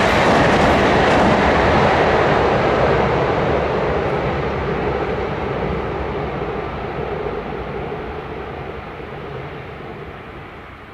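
Train running across a railway bridge, loud at first and then fading steadily as it moves away.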